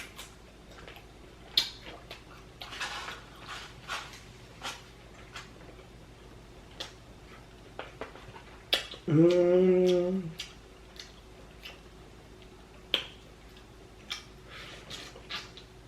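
Close-miked eating of a seafood boil: scattered wet clicks and smacks of chewing and handling shellfish. About nine seconds in, a short voiced sound from the eater, held for about a second, is the loudest thing.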